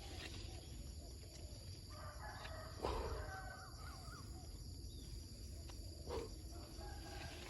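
A bird calling twice, each a drawn-out call of about a second, the first about two seconds in and the second near the end. A sharp knock about three seconds in is the loudest sound.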